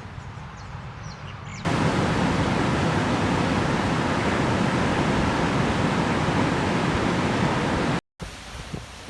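Birds chirp faintly over quiet outdoor ambience. About a second and a half in, it cuts abruptly to the loud, steady rush of a waterfall. Near the end there is a brief silence, then a quieter scene of surf and wind.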